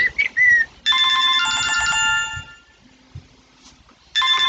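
Phone ringing: a ring of several steady tones together lasting about a second and a half, a pause of about the same length, then the next ring starting near the end.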